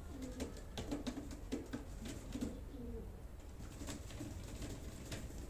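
Domestic pigeons cooing over and over in a loft, with scattered light clicks and rustles throughout.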